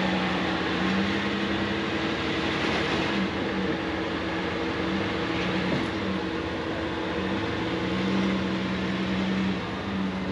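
Off-road 4x4's engine running steadily at low revs as it crawls slowly over rocks on the trail.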